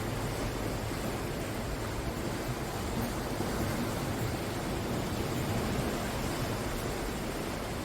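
Ocean surf washing steadily on the shore, a continuous roar of breaking waves that swells slightly in the middle.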